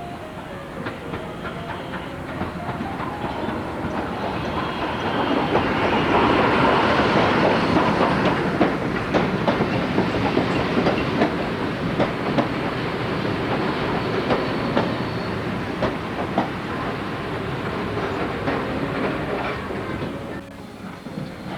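A train running on rails, its wheels clicking rapidly over the rail joints. The noise swells about five seconds in and then runs on steadily.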